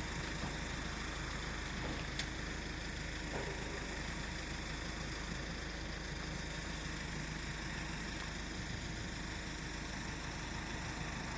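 A vehicle engine idling steadily, with one faint click about two seconds in.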